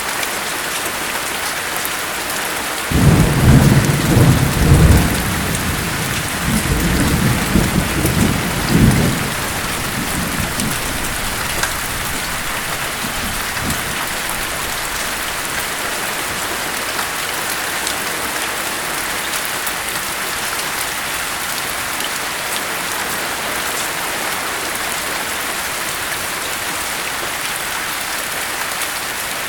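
Steady rain with a roll of thunder. The thunder breaks in suddenly about three seconds in, rumbles loudly in two surges and fades away a few seconds later, and the rain carries on evenly after it.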